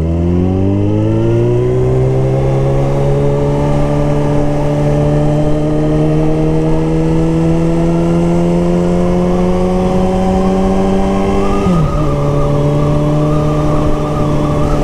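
Suzuki Hayabusa inline-four engine pulling under throttle. Its pitch climbs quickly for the first couple of seconds, keeps rising slowly, then drops at a gear change about twelve seconds in and holds steady. Wind buffets the microphone throughout.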